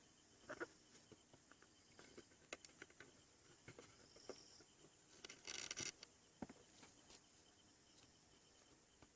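Near silence broken by faint scattered clicks and taps, with one brief scraping rustle a little past halfway.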